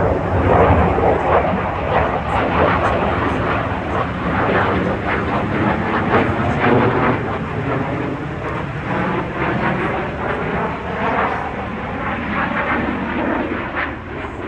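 Airplane flying past at an airshow with a loud engine roar that eases slowly as it goes.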